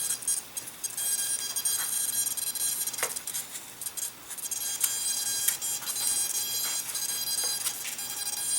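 Powered micro servos giving off a steady high-pitched whine, with scattered small clicks and taps from handling the parts.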